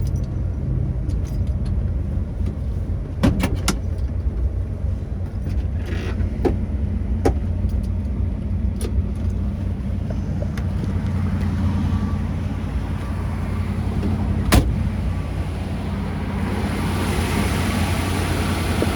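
The 1957 Ford Thunderbird's 312 Y-block V8 idles steadily, with several sharp clicks and knocks over it; the loudest knock comes about three-quarters of the way through. In the last few seconds the engine sound grows brighter and a little louder.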